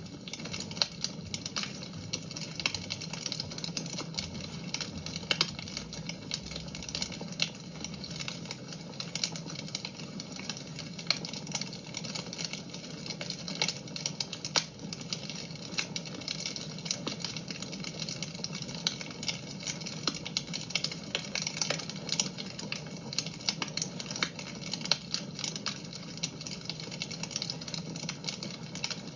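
Fireplace fire crackling steadily, with many small irregular pops and snaps over a low steady rumble.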